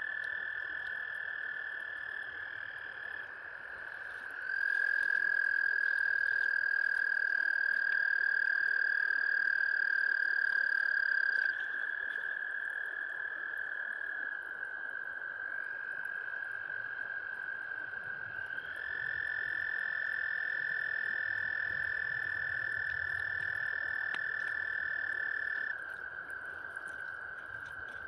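Frogs trilling: long, steady, overlapping trills from several callers at slightly different pitches. The loudest trill starts about four seconds in and stops about eleven seconds in, and another joins from about nineteen seconds in until near the end.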